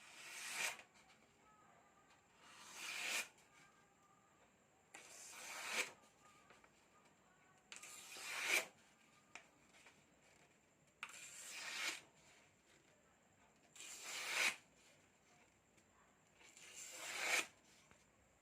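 Seven scraping strokes of a Serbian-style chef knife's blade. Each grows louder over about a second and stops sharply, about three seconds apart.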